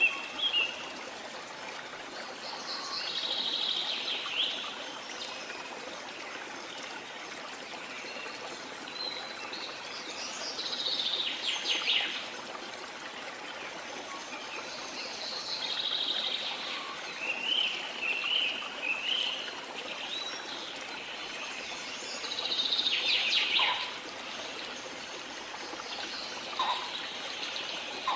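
Waterfall rushing steadily, with tropical forest birds calling in short chirping phrases every few seconds over it.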